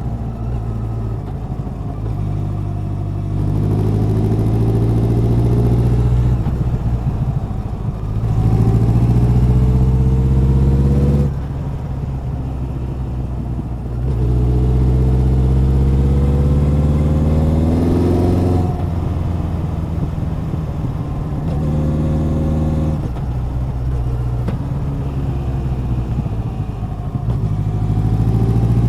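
Exhaust of a Honda CB1100's air-cooled inline-four while riding. The engine pulls up in pitch twice under throttle, about a third of the way in and again past the middle, and drops sharply after each pull, as at a gear change or throttle lift. In between it runs at a steadier, lower note.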